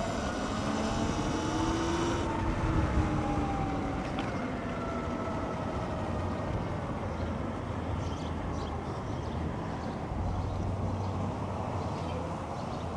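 Sur-Ron X electric dirt bike's motor whining as it rides, its pitch rising over the first couple of seconds and then falling slowly, over steady wind and road noise.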